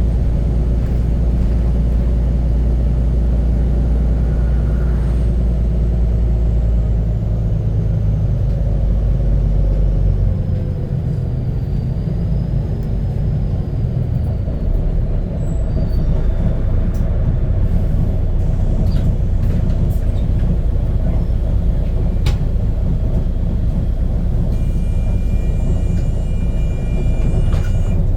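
Volvo B9TL double-decker bus's diesel engine running with a loud exhaust rumble from a burst exhaust. The engine note eases about ten seconds in and then picks up again. There are a few sharp clicks in the second half and a brief high tone near the end.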